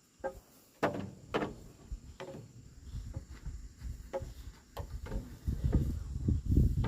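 Irregular knocks and clatters, about seven separate hits over a few seconds, then a denser low rumbling clatter near the end.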